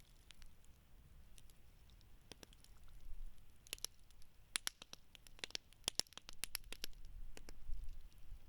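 Wood burning in a campfire, crackling with sharp pops and snaps: a few scattered pops at first, then a quick run of many pops through the middle.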